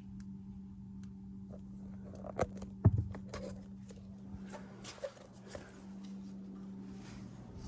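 Scattered clicks and knocks from tools and parts being handled, with a sharp double knock about two and a half seconds in, over a steady low hum.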